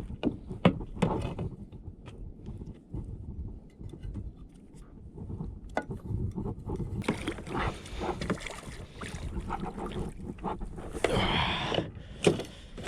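Water sloshing and splashing around a sea kayak, with scattered knocks and scrapes against the hull, while a hooked longtail tuna is gaffed and brought aboard. A louder splashing burst comes near the end.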